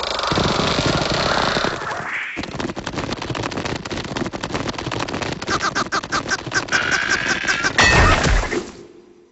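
Cartoon sound effects: a fast, busy clatter of knocks and crashes mixed with squawking cartoon-creature voices, with a heavy thump about eight seconds in before it fades out.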